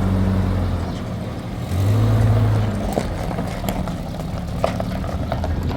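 An engine running with a steady low hum, swelling louder at the start and again about two seconds in, with a few light knocks.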